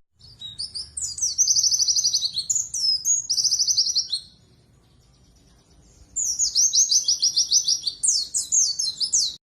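Pleci (white-eye) songbird singing: fast, high-pitched twittering trills in two long bouts, with a short pause between them.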